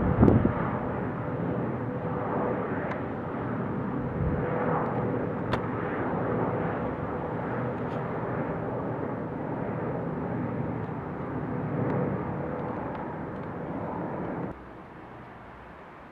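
Jet airliner's engine noise during departure: a steady rush with a faint held whine in it, strongest at first, then cut off suddenly near the end to a much quieter background.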